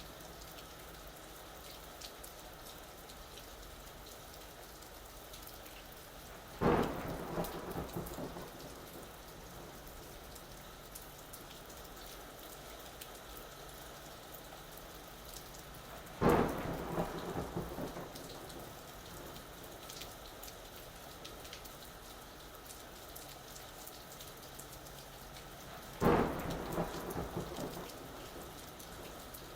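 Steady rain falling, with three sudden claps of thunder about ten seconds apart, each fading off over a second or two.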